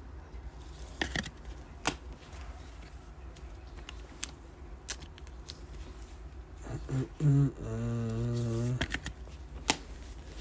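Trading-card packs and cards being handled, with a few sharp clicks and light rustling, and a low, wavering hum from a man's voice for about two seconds near the end.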